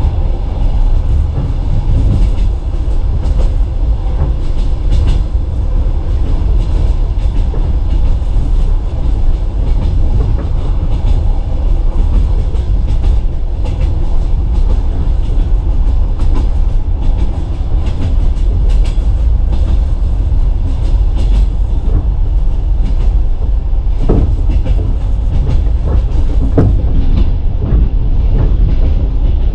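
Passenger train coach rolling along the track at speed: a steady low rumble of wheels on rails with scattered clacks, and two louder knocks near the end.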